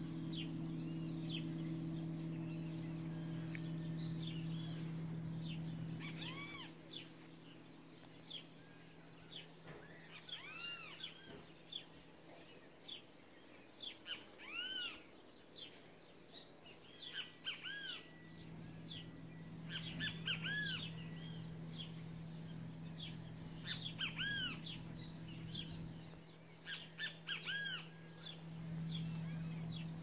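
Wild birds calling with short arched chirps, sounding every few seconds and loudest in the second half. A steady low hum runs underneath, fading out about six seconds in and returning around eighteen seconds.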